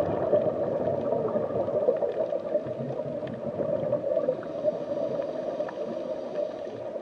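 Steady underwater ambience sound bed: a continuous, even rush of water noise that does not change.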